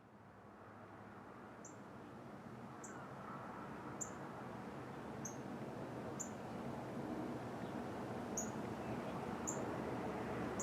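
A small bird's short, high chip call repeats about once a second over a steady background of outdoor noise that grows gradually louder.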